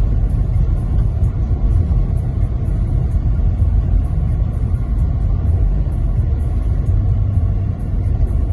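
Steady low road rumble of a car driving along a highway, with engine and tyre noise.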